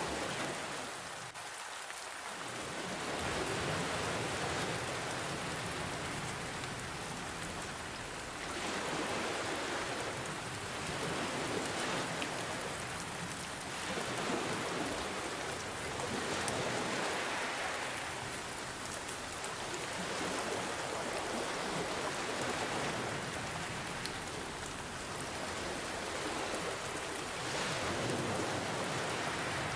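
Steady rain mixed with ocean waves, the hiss swelling and easing every few seconds as the waves wash in and draw back.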